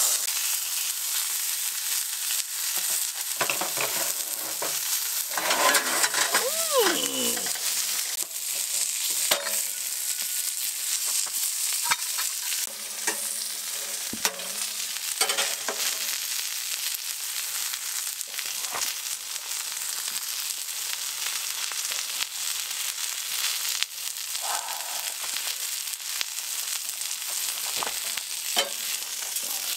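Burger patty frying in a hot pan: a steady sizzle, with occasional short clicks.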